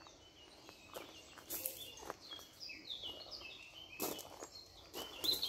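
Small birds chirping in quick series of short falling notes, with a few soft footsteps.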